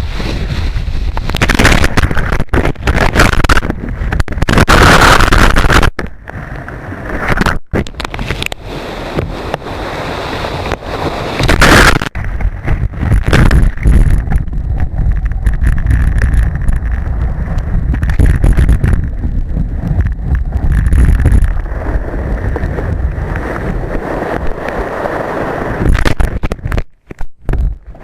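Wind buffeting the microphone over rushing and splashing surf, loud and uneven, surging in gusts, with the sound cutting out briefly a few times.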